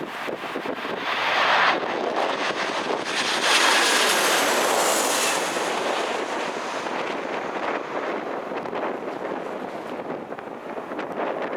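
Noise from a Boeing 737-800 landing, mixed with strong gusty wind buffeting the microphone. It swells in surges and is loudest about four to five seconds in.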